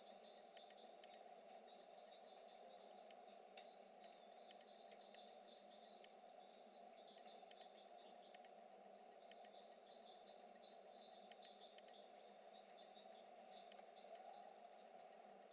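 Faint small birds chirping, a steady run of short, high chirps over a constant low hiss.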